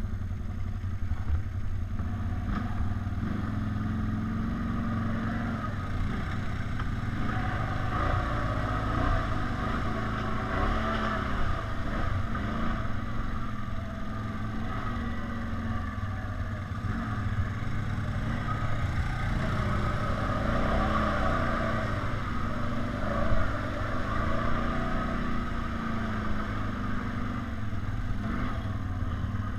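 ATV engine running off-road, its pitch rising and falling again and again as the throttle is worked.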